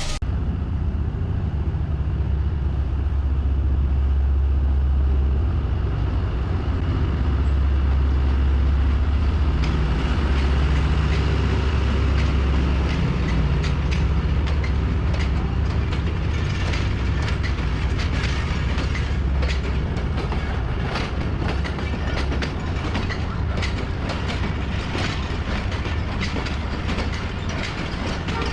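A train in motion: a steady, loud low rumble of the locomotive, with clickety-clack of wheels over rail joints becoming more frequent from about halfway.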